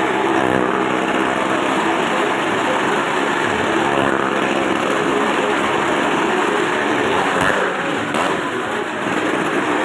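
Small motorcycle engines running steadily inside a well-of-death drum.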